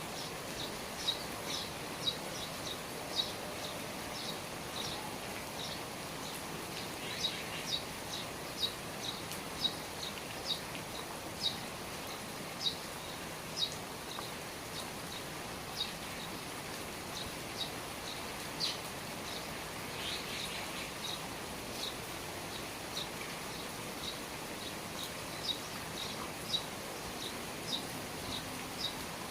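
Steady rain falling around the eaves, with a bird chirping over and over in short high chirps, often about two a second.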